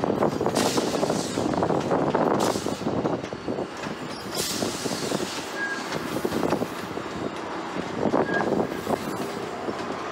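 GO Transit diesel locomotive and bilevel coaches rolling slowly by, wheels clattering over track switches and rail joints, with two brief high-pitched wheel squeals, one about midway and one near the end.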